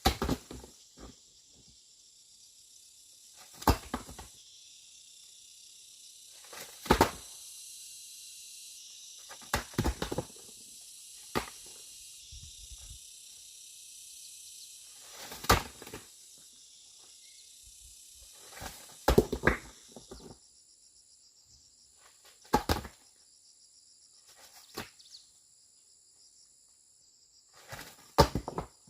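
Steady high-pitched insect chorus, with sharp knocks every few seconds, some in quick pairs or clusters.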